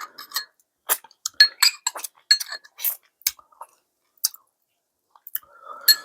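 Eating utensils clinking and scraping against a dish in a string of irregular, ringing clicks, with a short soft noise near the end.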